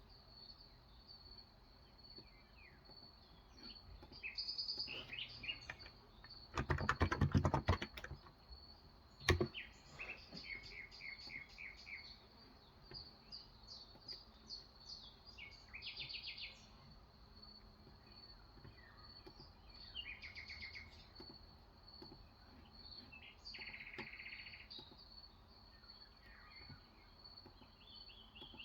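Birds chirping in repeated short phrases throughout, over a steady high-pitched whine. About 7 s in, a quick burst of typing on a Cox Endeavour electro-capacitive tenkeyless keyboard with 35 g switches, the loudest sound, followed by a single sharp click near 9 s.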